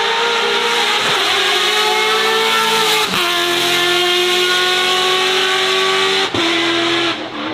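Racing car engine accelerating hard under full throttle, its pitch climbing steadily through each gear and dropping at three quick upshifts, about a second in, at three seconds and at six seconds.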